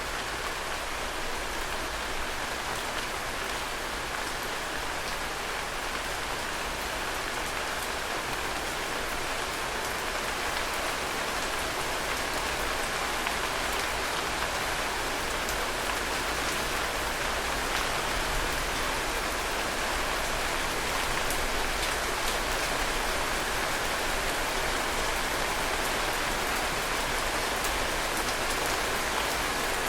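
Heavy rain falling steadily, with individual drops tapping close by; it grows a little louder as it goes.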